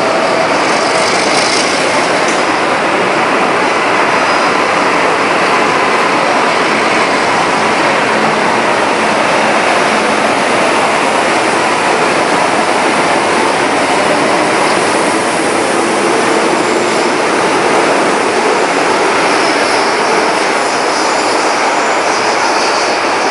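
Electric commuter and metro trains running past on the station tracks: a steady, even rolling noise with a faint steady whine.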